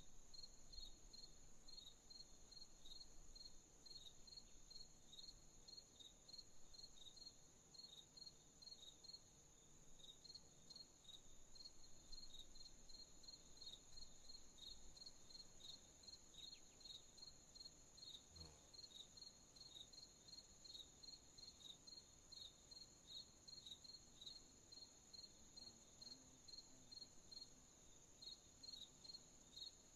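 Faint crickets chirping at night: a steady rhythm of short chirps, a few a second, over a continuous high-pitched insect trill.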